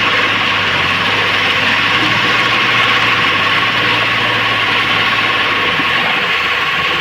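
A heavy machine's diesel engine runs steadily, with a constant hum and whine over engine noise. A low part of the hum drops away about six seconds in.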